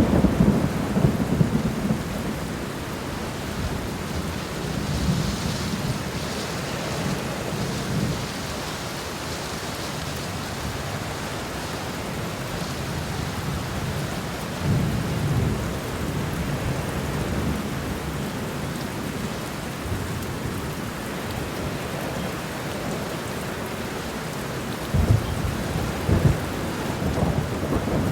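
Steady rain falling, with low rumbles of thunder near the start, again about halfway through, and in the last few seconds.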